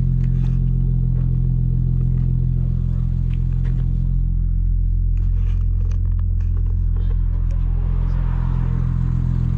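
Audi S4 wagon's engine idling steadily, with a few light clicks in the middle.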